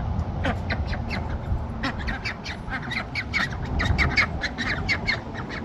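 Pekin ducks quacking: a few scattered calls, then a rapid run of short, harsh quacks from about two seconds in, several a second.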